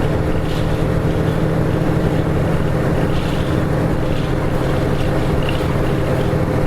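Nissan Diesel KK-RM252GSN bus running on the road, heard from inside the cabin: a steady diesel engine drone over low rumble and road noise.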